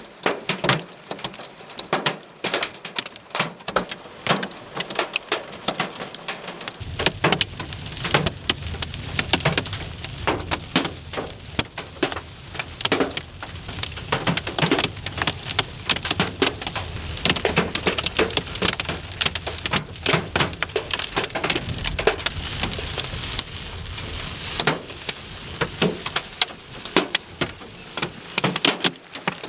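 Hailstones pelting down with rain, a dense, irregular clatter of hard impacts. A low rumble joins about seven seconds in and fades out near the end.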